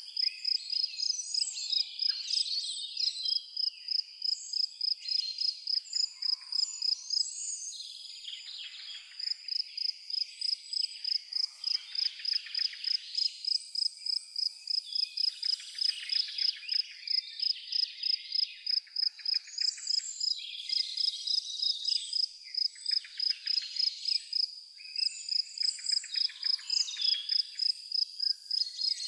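A cricket chirping in a steady, even rhythm of about two to three high-pitched chirps a second, pausing briefly twice, while several birds sing varied phrases behind it.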